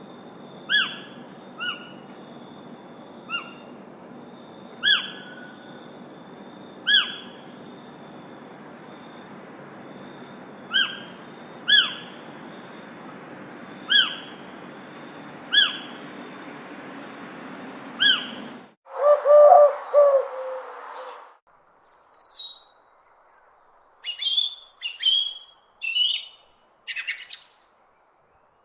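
Bird calls: a single sharp, falling chirp repeated every second or two over a steady background hiss, which cuts off abruptly two-thirds of the way through. A lower call of about two seconds follows, then several quick, varied bird song phrases.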